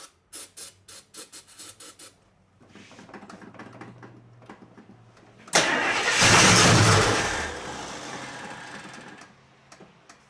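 A series of sharp clicks, then a 1969 AMC Javelin's 290 V8 cranking over for about three seconds before it suddenly fires and runs loudly. It fades over the next few seconds and dies out, a first start after about six months of sitting.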